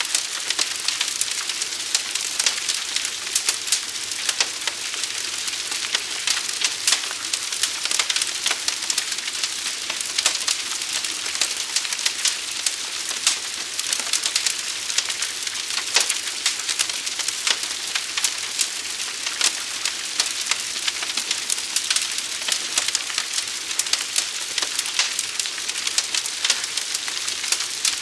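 Forest fire burning: a continuous hiss with dense, irregular crackling pops throughout.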